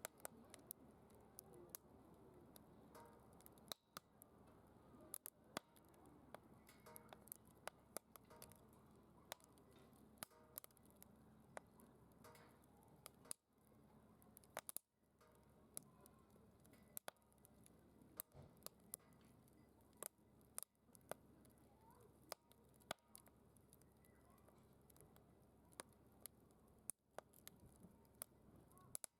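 Wood fire crackling faintly in a secondary-combustion fire pit: sharp, irregular pops and snaps over a soft, low rush of flame.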